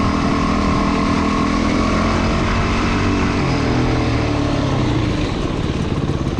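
Motorcycle engine running steadily under throttle while riding. It eases off about three and a half seconds in, its pitch falling, and a rougher noise from engine and wind follows near the end.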